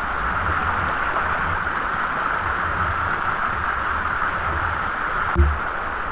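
Steady rushing of a waterfall, with a low rumble that comes and goes underneath and one short dull thump about five seconds in.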